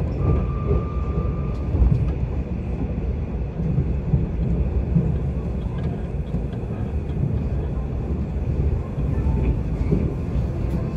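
Mugunghwa passenger train running at speed, heard from inside the carriage: a steady low rumble of wheels on the rails and car body. Near the start a thin, steady high tone sounds for about a second and a half.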